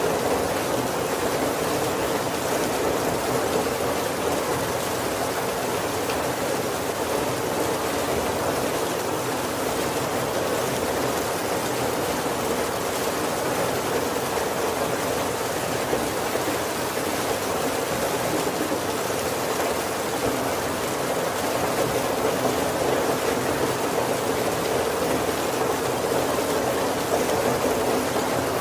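Heavy rain falling steadily on a roof, a continuous even hiss with no breaks and no thunder.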